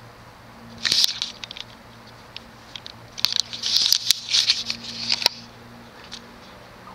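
Fasco Vanity Fair ceiling fan running on low speed with a faint steady motor hum. Bursts of rustling, crackling clicks come about a second in and again from about three to five seconds in.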